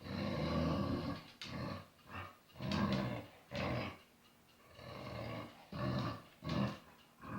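A pet growling in a string of short, low growls, about seven in all, the first the longest.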